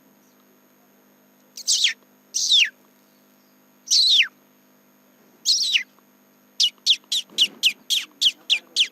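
A man imitating a chick's peeping by mouth: four spaced, high cheeps that each fall in pitch, then a quick run of shorter falling peeps, about four a second, starting about two-thirds of the way through.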